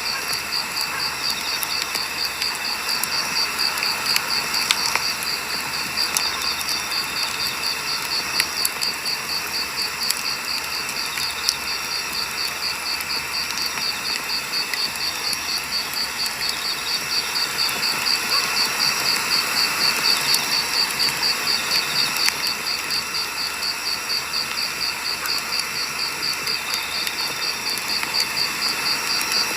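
Wood fire burning, with scattered crackles and pops, over a steady high pulsing trill of insects.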